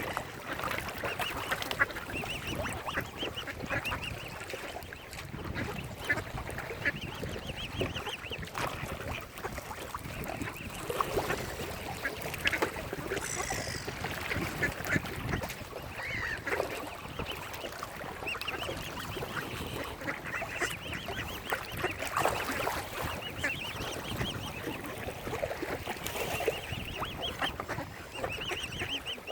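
Waterfowl calling, mallard ducks among them: a continuous clamour of many overlapping quacks and honks.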